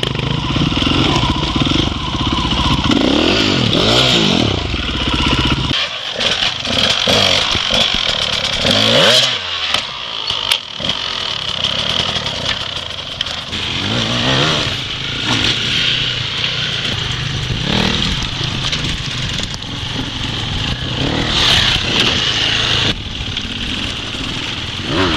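Dirt bike engine revving up and down as the bike is ridden, its pitch rising and falling over and over. About six seconds in, the sound changes abruptly and the deep low end drops away.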